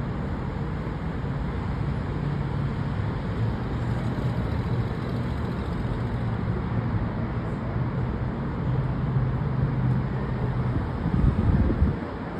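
Steady city street traffic noise: cars running by with a constant low engine hum under a wash of road noise. A louder low rumble swells near the end, then drops off.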